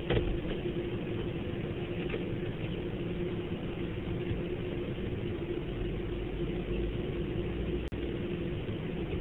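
Steady rumble and hum of an automatic car wash, heard from inside the car's cabin, with a constant droning tone.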